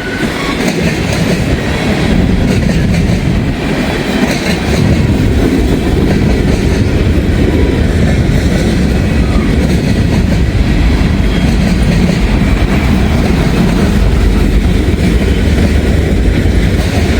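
A long freight train of empty steel gondola cars rolling past close by, loud and steady throughout.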